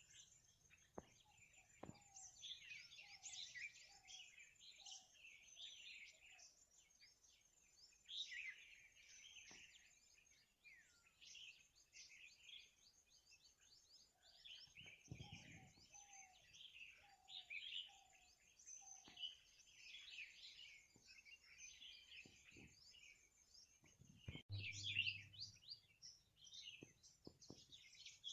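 Faint morning bird chorus: many small birds chirping and trilling at once. Twice a bird repeats a short lower note in a run of about eight, roughly two a second.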